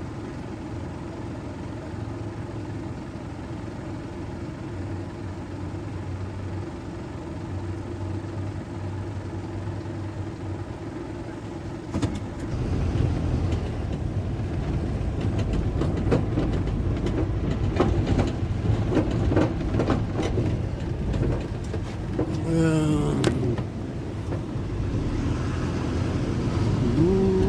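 Car engine idling steadily, then about twelve seconds in the car pulls away and drives on, the engine and road noise suddenly louder and rougher.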